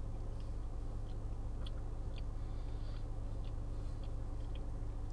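A man chewing a bite of a soft chocolate cream-filled snack cake: faint, irregular small mouth clicks, several a second at most, over a steady low electrical hum.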